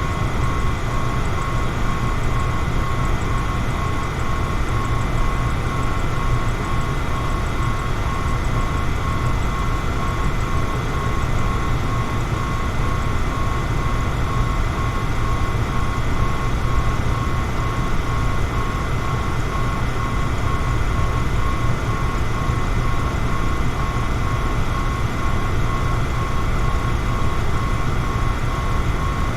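Electric fan running at a steady speed: a constant low whir with a thin, steady whine above it.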